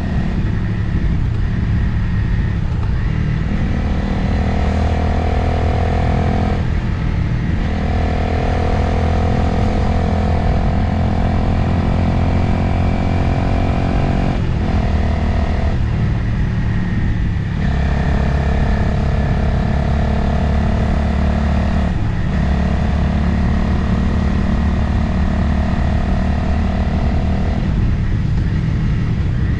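Motorcycle engine running under way with wind noise over the microphone. The engine note climbs slowly through each stretch and drops away briefly several times, then eases back to a plainer rumble near the end.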